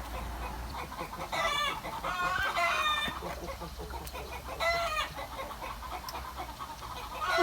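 A chicken calling three times, the middle call about a second long.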